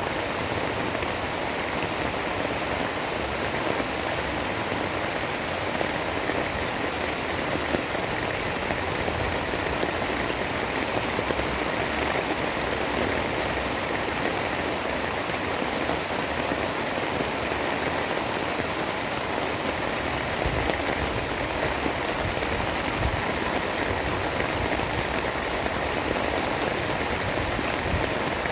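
Steady heavy rain, a dense even hiss with no breaks, with some low rumbling coming up in the last third.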